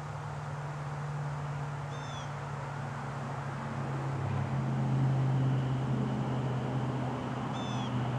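Two short, high, down-slurred bird calls, about five and a half seconds apart, over a low steady hum that grows louder and drops slightly in pitch about four and a half seconds in.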